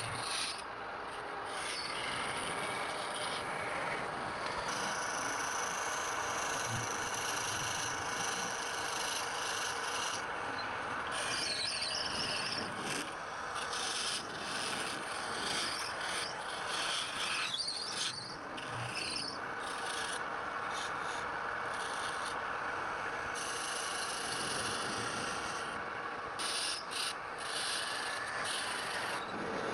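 Wood being abraded by hand: a steady rubbing scrape that dips briefly a few times.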